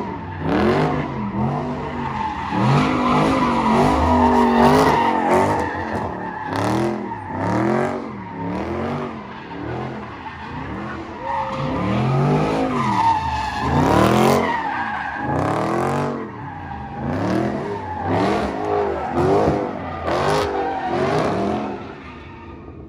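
Car engine revved hard over and over, its pitch climbing and dropping about once a second, with tires skidding as the car is thrown around.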